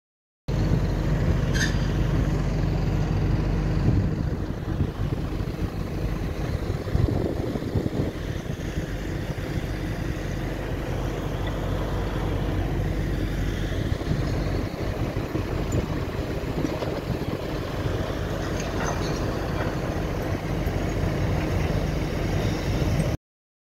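Heavy diesel machinery running steadily, its engine note holding low and even, with a short sharp click near the start.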